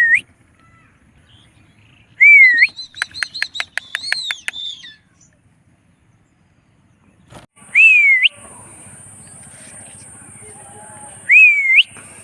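Indian ringneck parrot giving short whistled calls, each a quick up-and-down glide, three times. After the first comes a rapid run of clicky chatter. A steady high hiss sets in about two-thirds of the way through.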